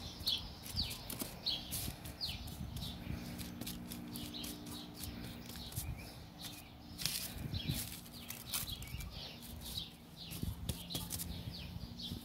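Small birds chirping in the background: many quick, downward-sweeping chirps repeated throughout, with a few faint clicks and rustles.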